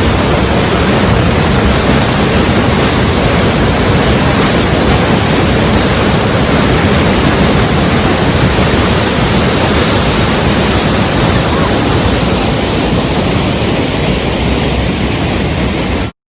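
Waterfall rushing: a loud, steady noise of falling water that cuts off suddenly near the end.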